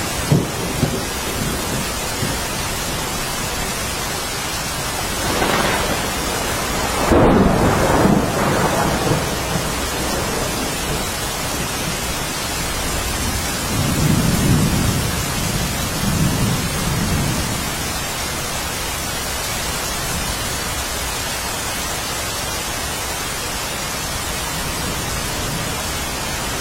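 Steady rain falling, with rolls of thunder rumbling over it: the loudest about seven seconds in and a softer one around fourteen seconds.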